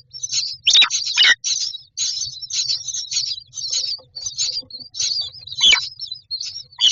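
Common mynas calling: a rapid, continuous run of short, raspy high chirps, with a few louder calls about a second in and again near the end.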